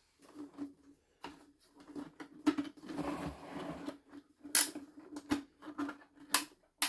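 Plastic casing parts of a vacuum cleaner being handled and worked loose as its handle is taken off: a run of sharp clicks and knocks, with a stretch of scraping about halfway through.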